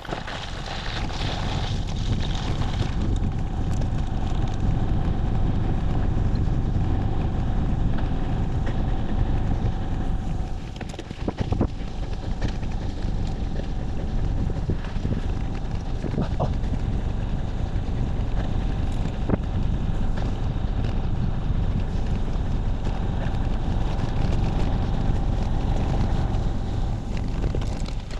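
Wind rumbling and buffeting on the microphone, a steady low rumble with a short lull about eleven seconds in.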